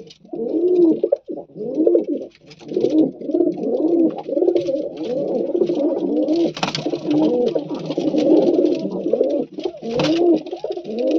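Domestic pigeons cooing over and over, the rolling coos overlapping almost without a break. Two brief sharp clicks cut in, about six and a half and ten seconds in.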